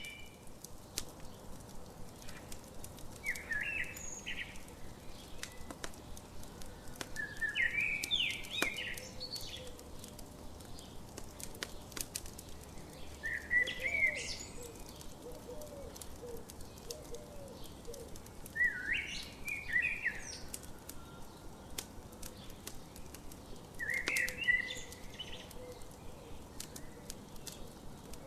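A songbird repeating a short chirping phrase about every five seconds over a campfire crackling with scattered small pops, with fainter lower bird calls in between.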